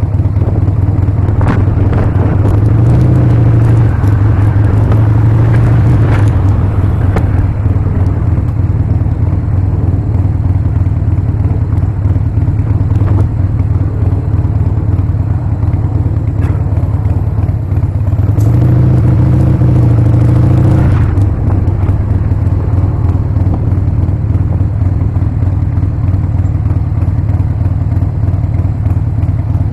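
Harley-Davidson Sportster's V-twin engine running under way. Twice, a few seconds in and again about two-thirds of the way through, it gets louder and its note rises and falls as the bike accelerates and shifts.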